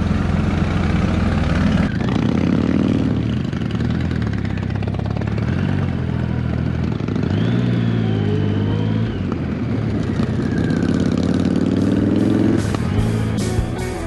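Motorcycle engine running under load, its pitch climbing in three separate pulls as it accelerates through the gears.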